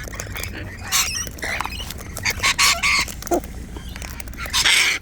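Several wild cockatoos calling at close range: a run of short, harsh, noisy squawks mixed with clicks, with a louder squawk near the end.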